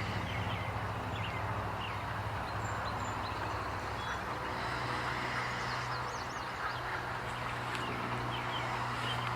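Narrow-gauge train running: a steady rumble with a low hum, and scattered short high squeaks throughout.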